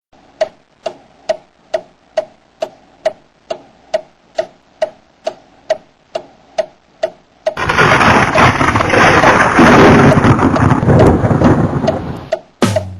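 Even ticking, a little over two ticks a second, then a loud rumbling roar that lasts about five seconds and dies away, after which the ticking returns.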